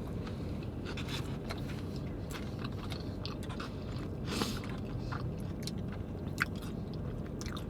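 A person chewing food close to the microphone, with irregular small wet clicks and smacks of the mouth, one slightly louder about halfway through.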